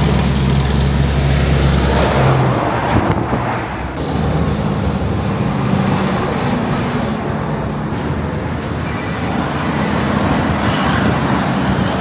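Road traffic with heavy trucks: diesel engines running and passing over steady tyre and road noise, the engine note changing about two seconds in as one vehicle gives way to another.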